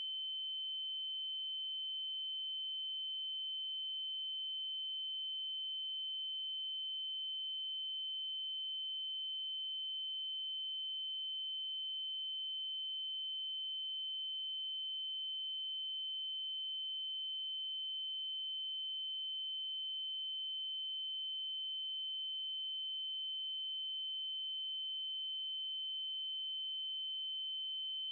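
Synthesized 3072 Hz triangle-wave tone, a steady high-pitched electronic whine held at constant pitch and level, with faint clicks about every five seconds.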